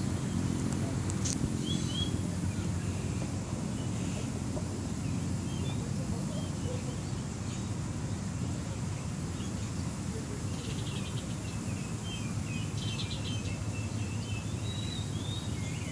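Birds chirping and trilling now and then, over a steady low outdoor rumble.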